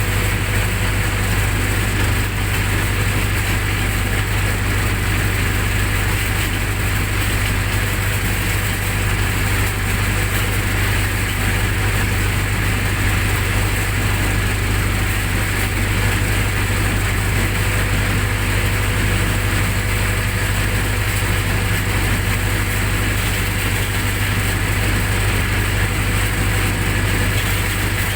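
Generator set's engine running steadily, a constant low hum with no change in speed.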